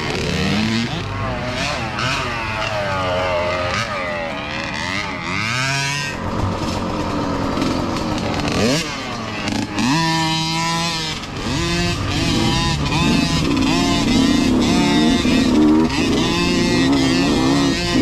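Several mini dirt bike engines revving and easing off as the bikes ride by, their pitch rising and falling over one another. A little before the middle, one bike's engine climbs sharply in pitch and then holds a steady high rev.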